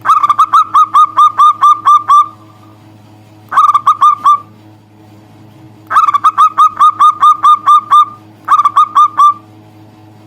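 Zebra dove (perkutut) calling in four quick runs of short, clipped notes, about five a second, each note dropping slightly in pitch, with brief pauses between runs.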